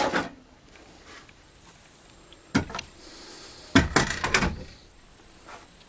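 Metal knocks and a rattle as the Bosch PTS 10 table saw's rip fence is handled, slid and clamped: one sharp knock about two and a half seconds in, then a short burst of knocks around four seconds. The fence shifts out of position when it is locked.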